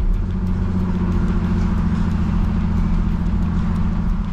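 Car engine running at steady revs, heard from inside the cabin. It is a continuous low hum with a faint, regular high ticking of about four ticks a second over it.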